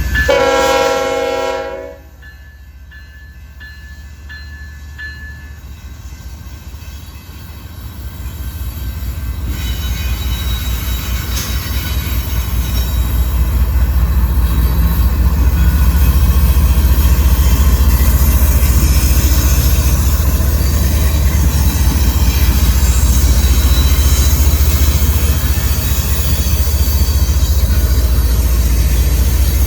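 A freight train's diesel locomotive horn sounds a chord that cuts off about two seconds in. Then the low rumble of the train builds over the next dozen seconds and holds steady as the locomotives and mixed freight cars roll past.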